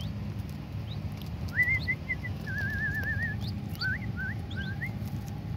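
Young birds giving soft whistled chirps: a few rising notes, then a short wavering trill, then several quick upward-sliding calls, over a low steady hum.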